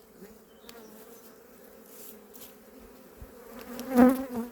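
Honey bees buzzing steadily over an opened hive, a low, even hum that briefly swells loud near the end.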